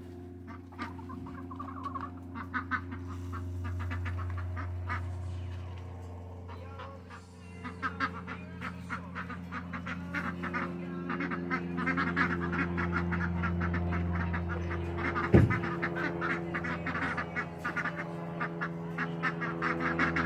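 Ducks quacking in quick, chattering runs that grow busier in the second half, over a steady low mechanical hum. There is one sharp knock about three-quarters of the way through.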